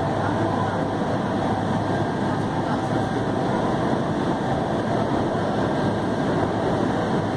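Steady running noise of a moving electric commuter train heard from inside the carriage: an even rush of wheels on rails at cruising speed.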